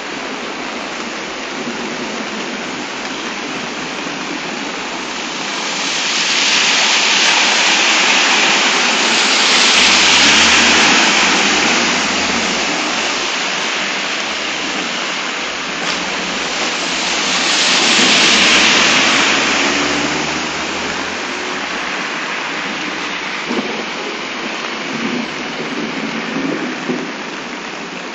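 Torrential downpour: heavy rain pouring steadily, swelling louder twice for several seconds.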